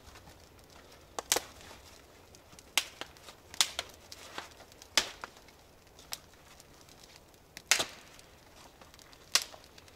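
Firewood being chopped for the campfire: about eight sharp wooden strikes at uneven spacing, roughly one every second.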